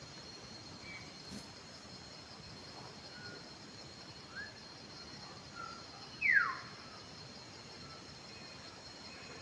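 Wild birds calling against a steady high-pitched insect drone: a few short, faint chirps, then one clear whistle sliding downward about six seconds in, the loudest sound.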